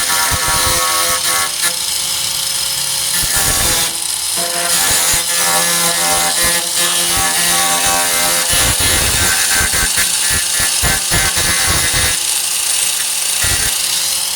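A 4-1/2 in. electric angle grinder with a grinding disc, running continuously with a steady whine over a gritty hiss as it grinds paint off the steel of the truck tailgate down to bare metal. Its sound dips briefly about four seconds in and turns rougher and more uneven in the second half as the disc bears on the metal.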